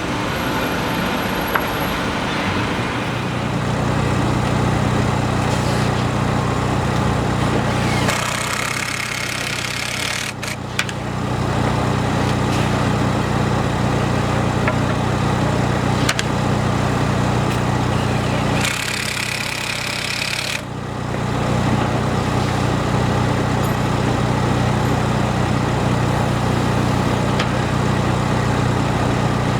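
A large engine running steadily at an even speed, coming in about three seconds in. Twice, for two or three seconds each, the hum drops away under a high hiss.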